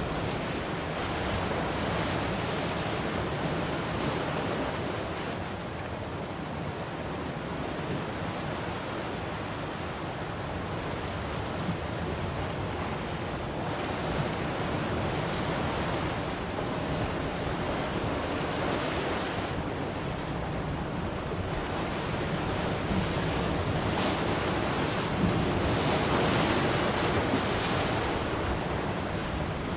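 Ocean waves breaking on the shore in a continuous wash of surf, swelling a little louder near the end, with some wind on the microphone.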